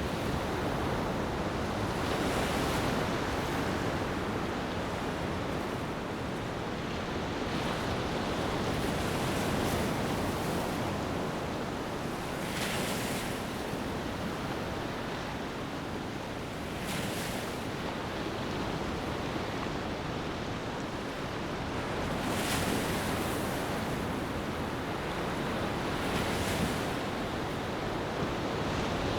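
Sea waves washing onto a beach in a continuous surf, with a wave surging in every few seconds.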